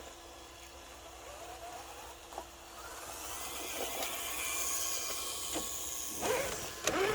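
Electric motor and gear drive of an Axial RC rock crawler whining as it drives, the pitch rising and falling with speed, growing louder from about three seconds in, with a few knocks near the end.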